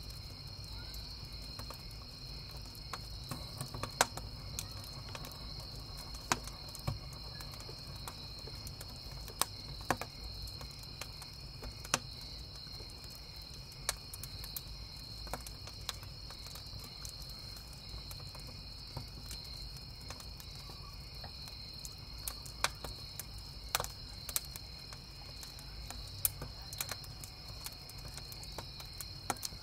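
Crickets chirping steadily while a wood campfire crackles, with irregular sharp pops from the burning firewood, the loudest about four seconds in.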